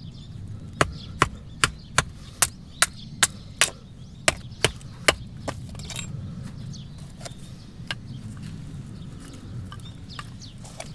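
Axe chopping firewood in quick, light strokes: about eleven sharp strikes at a steady two to three a second, then a few scattered faint knocks.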